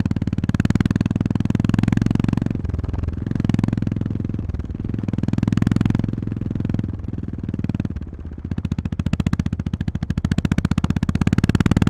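Honda GB350-series single-cylinder motorcycle engine running under way, its firing pulses rising and falling as the throttle is opened and closed. The level dips several times, most deeply about two-thirds of the way in, then picks up again near the end.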